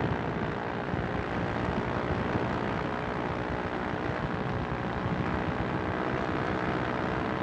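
Two-stroke engine of a light aircraft driving its propeller in level flight, a steady drone that holds its pitch throughout.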